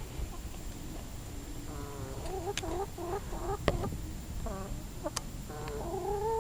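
Chickens clucking: a run of short calls starting about two seconds in, ending in a longer rising call, with a few sharp clicks in between.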